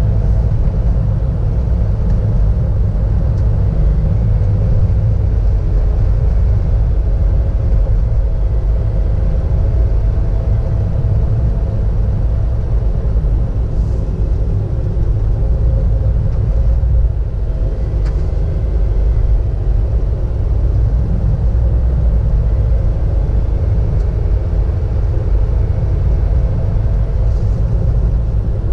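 A car being driven at a steady pace, heard from inside the cabin: a constant low road and engine rumble with a faint hum wavering above it.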